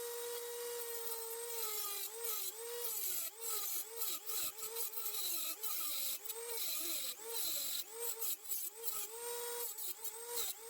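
High-speed rotary tool with a cutting wheel slitting the steel exhaust slots of a Stihl MS170 chainsaw muffler. The motor's high whine runs steady at first, then dips in pitch again and again as the wheel bites into the metal and recovers between cuts.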